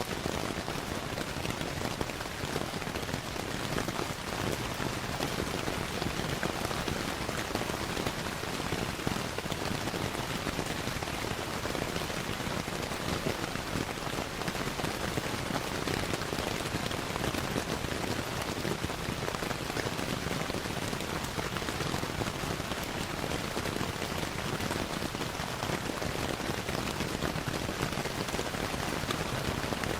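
Steady rain falling and pattering on a surface, mixed with the crackle of a wood fire.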